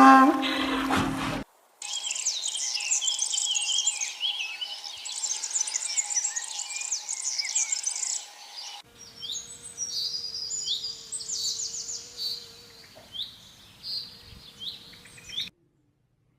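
Birds chirping and singing in a busy chorus of quick high calls. A few seconds later come sparser, separate calls over a steady low hum, which stop abruptly near the end. A short bit of music ends just as the birds begin.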